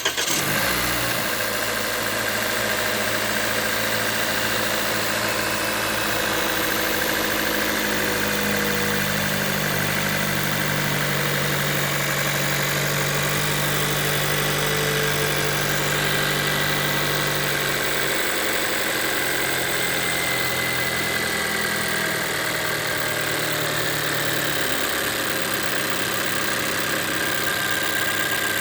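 Toyota Corolla 2024 engine just after a cold start, running at a raised fast idle. In the second half the revs drop in steps as the cold-start fast idle ends and the idle settles lower.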